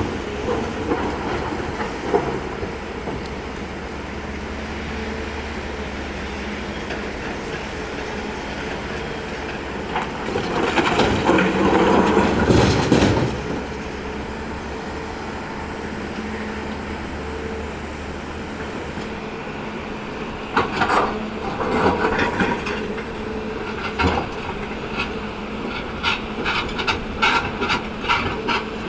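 Hyundai hydraulic excavator's diesel engine running steadily, rising into a louder stretch about halfway through. In the latter part, stones knock and clatter as they are loaded.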